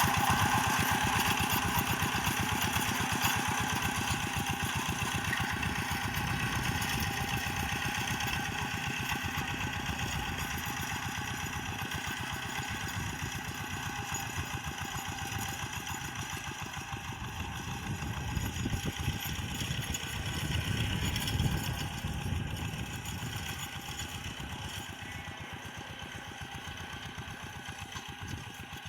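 Rice-field tractor's engine running with a fast, even beat, slowly getting quieter, with a brief swell about three quarters of the way through.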